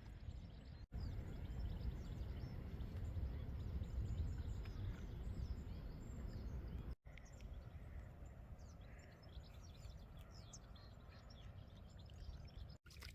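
Steady low outdoor rumble with faint bird chirps above it; the sound cuts out for an instant three times.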